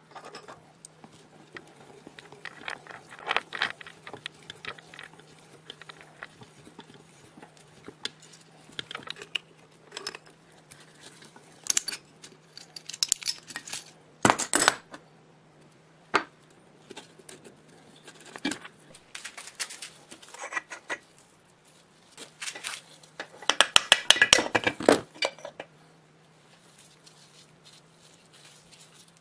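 Metal parts and tools clinking and knocking as they are handled, in irregular separate taps with a quick run of rattling clatter about two-thirds of the way through. A low steady hum sits underneath.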